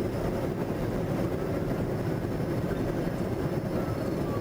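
Steady road and engine noise of a moving vehicle, with a faint tone falling slightly in pitch near the end.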